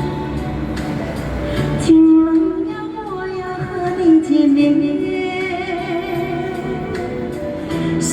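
A female singer sings a Chinese ballad over band accompaniment, holding long, wavering notes from about two seconds in.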